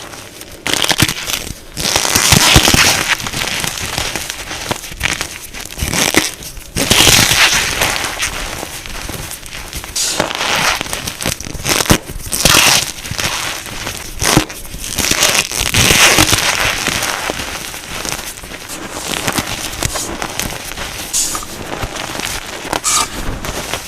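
Plain gym chalk being crushed, a dense crunching and crackling that swells and eases in surges every few seconds.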